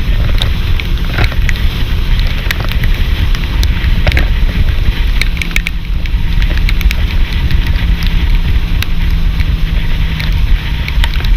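Tour boat's motor running with heavy wind buffeting on the microphone, a loud steady rumble scattered with sharp crackles.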